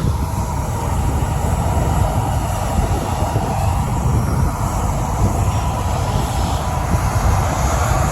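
Jet airliner's engines at takeoff thrust: a loud, steady low rumble of jet blast buffeting the microphone, with a faint steady whine over it.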